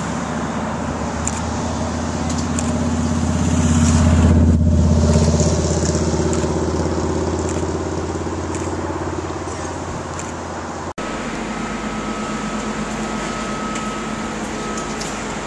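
Vehicle engine running with a low hum, growing louder to a peak about four and a half seconds in and then easing off. About eleven seconds in, the sound cuts abruptly to a different, steadier rumble.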